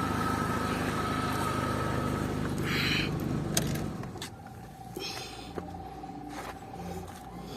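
Dodge Stratus engine, fitted with a high-flow air filter, idling, then switched off about four seconds in. A faint steady tone and a few light clicks follow.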